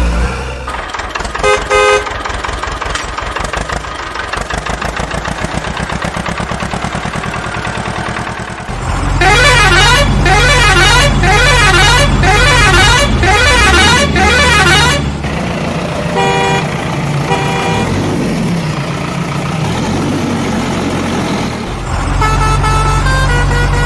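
Vehicle sound effects: a steady engine hum with short horn honks near the start and again later, and a loud warbling horn or siren, rising and falling quickly, for several seconds in the middle.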